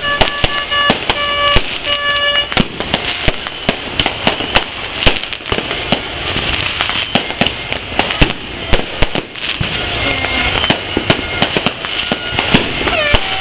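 New Year's fireworks and firecrackers going off in rapid, irregular bangs and crackles over the steady din of a crowd. For the first couple of seconds a buzzy horn-like tone sounds in short repeated blasts, and near the end a few sliding whistles are heard.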